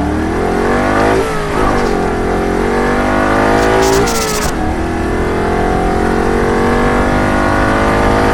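A high-revving vehicle engine accelerating hard through the gears, its pitch climbing and dropping sharply at gear changes about a second and about four seconds in, then climbing steadily again.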